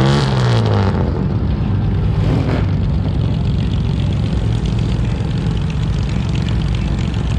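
A car engine running, its pitch sliding down just after the start and then settling into a steady low drone.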